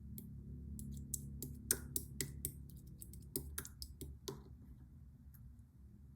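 A run of about a dozen sharp, moist clicks and crackles, closest together between about one and a half and four and a half seconds in, then stopping, over a steady low hum.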